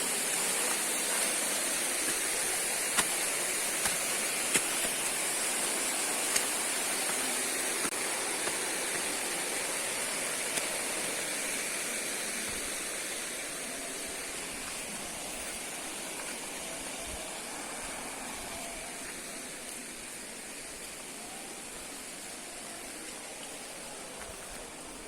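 Steady rush of falling and flowing river water, with a few sharp clicks in the first several seconds. The rush fades gradually through the second half.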